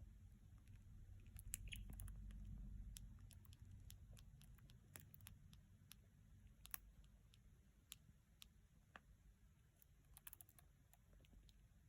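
Faint, irregular light clicks and taps, scattered a few to the second, over a low rumble.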